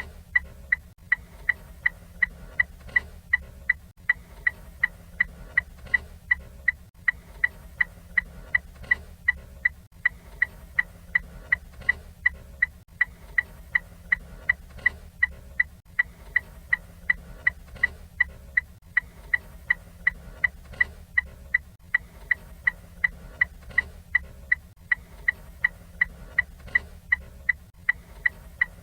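Ford Fiesta turn-signal indicator ticking steadily and evenly, each tick a short, sharp, high-pitched click, over a faint low hum.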